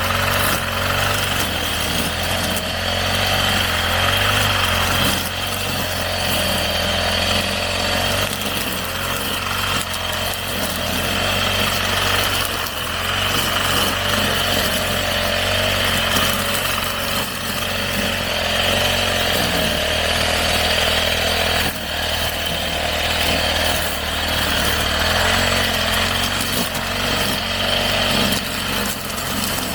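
Small petrol engine of a grass trimmer (brush cutter) running steadily at working speed, its pitch rising and falling a little as it cuts.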